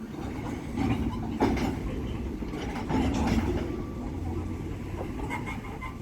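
Freight train rolling along the rails: a steady low rumble of wheels with a sharp clank about one and a half seconds in and lighter knocks after it.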